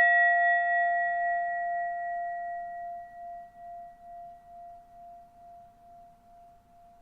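A struck singing bowl ringing out, its tone slowly fading with a steady wavering pulse.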